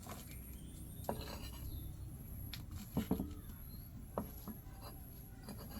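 Kitchenware being handled: a few scattered knocks and short ringing clinks, the loudest pair about three seconds in.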